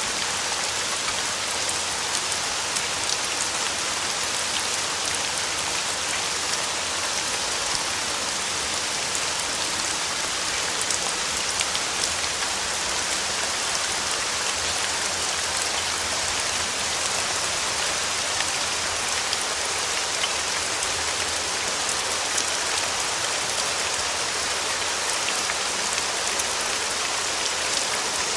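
Steady rain: an even hiss of falling rain with a faint patter of individual drops.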